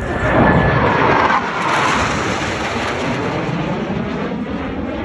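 Boeing F/A-18 Super Hornet jets passing low: a loud jet roar with a whine that falls in pitch over the first second and a half. The roar then slowly fades.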